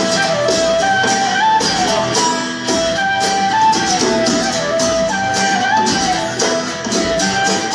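Live band playing an instrumental introduction: strummed guitar chords in a steady rhythm under a stepping melody line.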